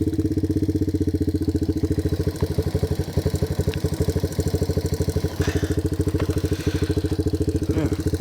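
Yamaha TW200's single-cylinder four-stroke engine idling steadily in neutral, with an even, rapid beat of exhaust pulses.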